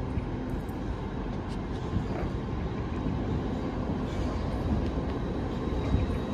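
Steady low rumble and hum of trains standing at the platforms of a large station, with no single event standing out.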